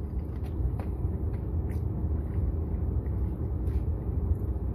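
Steady low rumble of a car heard from inside the cabin, with a few faint light clicks over it.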